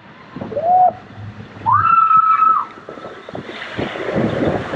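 Rushing, splashing water with wind noise on the microphone, broken by two drawn-out shouted calls, a short one and then a longer, higher one about two seconds in.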